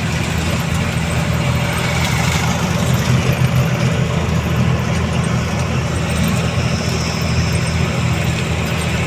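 A truck's diesel engine running steadily with an even low drone.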